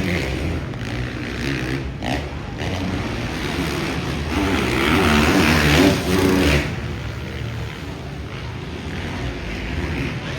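Dirt bike engines revving hard in a supercross race, loudest for a couple of seconds midway.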